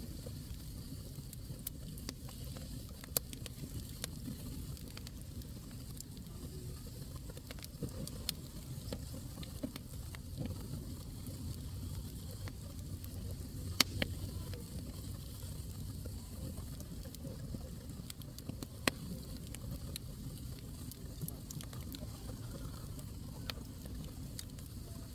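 Wood fire burning in a fireplace, crackling with scattered sharp pops over a steady low rumble. The loudest pop comes about halfway through.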